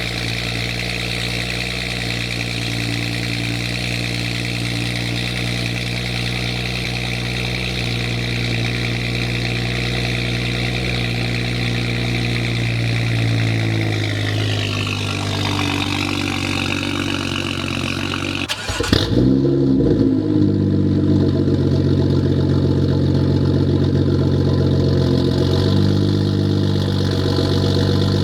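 Straight-piped BMW M235i's turbocharged inline-six (catted downpipe, no muffler or resonator) idling steadily with a deep exhaust note. About 19 s in, the sound changes abruptly to a second take of the idle, with less hiss and a slightly different tone.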